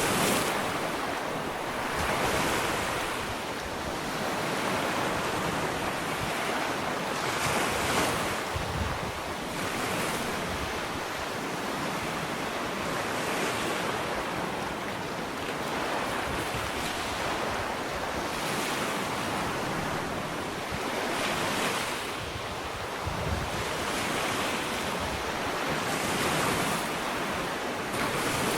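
Small ocean waves washing onto a sandy beach, one surge of surf every few seconds over a steady wash of water, with some wind on the microphone.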